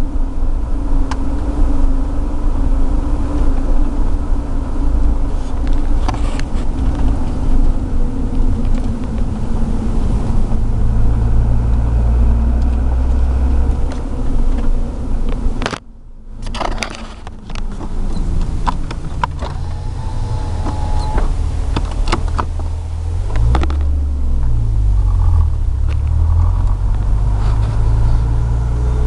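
Hyundai Tiburon running, a steady low rumble with a brief sudden drop in level about halfway through and low tones shifting in pitch in the second half. It carries the unidentified noise that the owner is asking others to diagnose.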